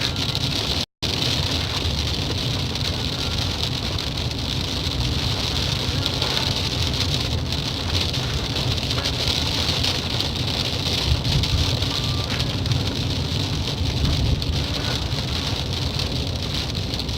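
Steady hiss of rain over a low rumble of vehicle noise, as of traffic on a wet road. The sound cuts out for an instant about a second in.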